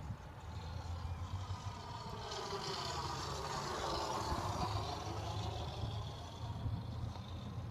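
Radio-controlled scale Hawker Sea Fury model airplane flying past: its sound builds to a peak about four seconds in, then drops in pitch as it goes by and moves away.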